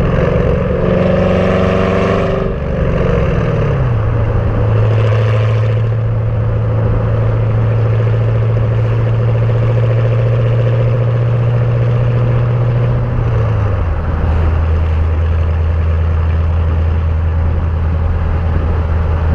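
2014 Camaro SS's LS3 V8 running through Kooks long-tube headers and a Borla ATAK cat-back exhaust. Its note falls in pitch a few seconds in, holds steady, then drops again to a lower, steady note about 14 seconds in.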